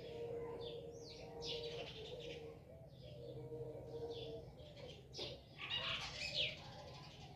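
Birds chirping: a series of short high chirps that come thickest and loudest about six seconds in, over a steady low hum.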